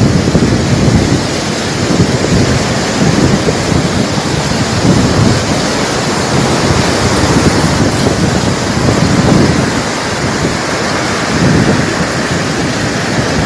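Windstorm with heavy rain: a steady loud hiss of rain under gusting wind that rumbles in low surges against the microphone every second or two.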